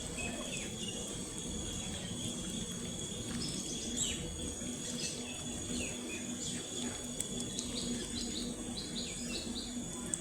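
Ducklings peeping: short, high, falling peeps, scattered at first, then a quick run of them near the end. A steady high-pitched hum and low background noise sit underneath.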